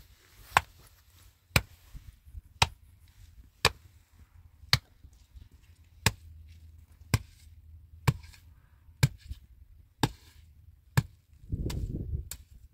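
A metal spade blade striking hard, dry earth about once a second in sharp, ringing chops as the soil of a bank is broken up. Near the end there is a short rush of loosened soil.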